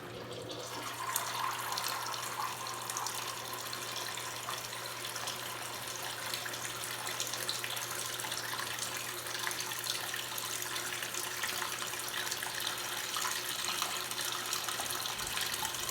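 Water running steadily from a tap or hose into a washing machine tub, topping up the wash water, with a steady low hum underneath.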